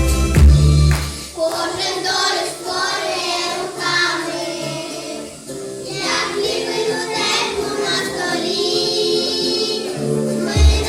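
A group of young children singing a song together over a backing track. The heavy bass beat drops out about a second in, leaving the voices over lighter accompaniment, and comes back near the end.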